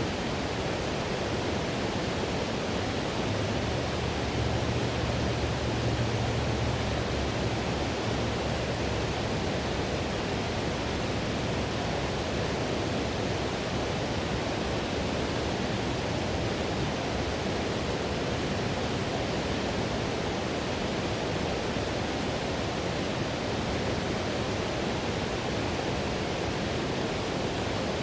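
Whitewater river rushing, a steady, even roar of water with a slight low swell a few seconds in.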